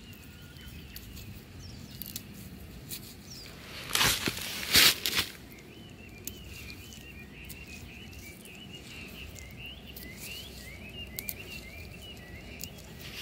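Small birds chirping repeatedly in the background. About four seconds in, a couple of seconds of loud, close rustling and crackling from hands working at the base of a grapevine trunk.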